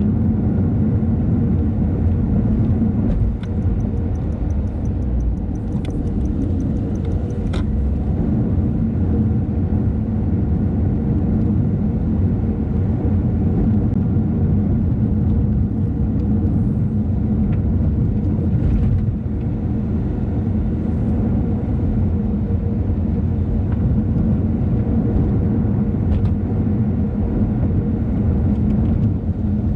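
A car driving on a road: steady engine and tyre rumble, with a short run of fast high ticking and a couple of sharp clicks a few seconds in.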